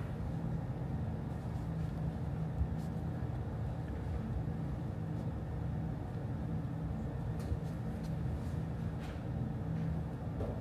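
Office room ambience: a steady low hum with a few faint clicks and taps.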